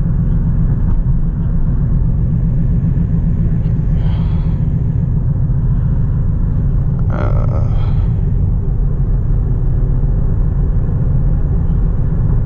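Steady low rumble of a Hyundai Elantra being driven: engine and road noise, even in level throughout.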